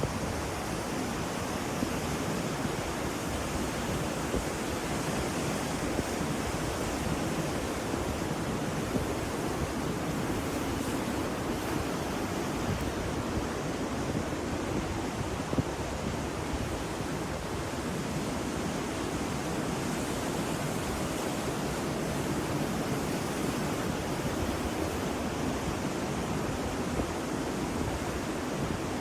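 Ocean surf, a continuous even rush of water with no distinct breaking waves standing out.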